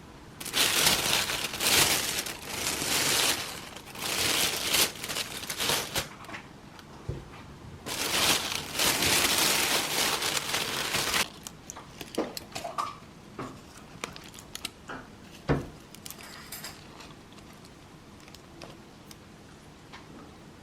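Bursts of crinkling, rustling noise lasting a few seconds each, then scattered small clicks and knocks.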